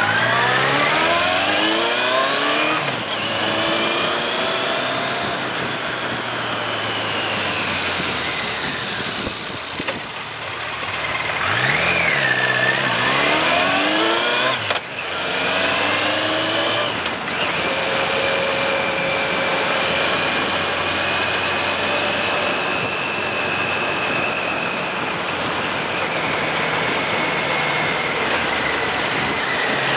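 Suzuki GSX1400's inline-four engine pulling hard, its pitch rising as it accelerates until about three seconds in. It accelerates again from about twelve to fifteen seconds, then runs at a steady, even pitch.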